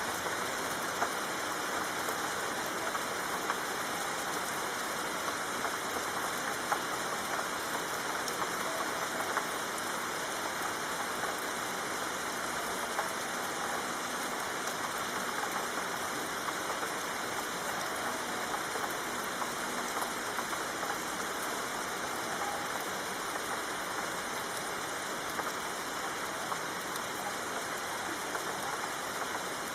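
Steady soft rain: an even hiss of falling rain with scattered individual drops ticking through it.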